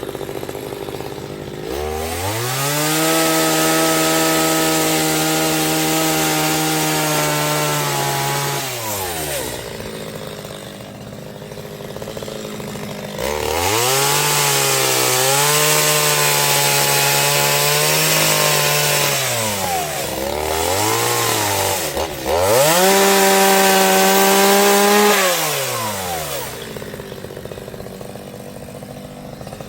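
Chainsaw engine revving up and cutting wood in three spells of several seconds each, with a short blip between, dropping back to a low idle in between.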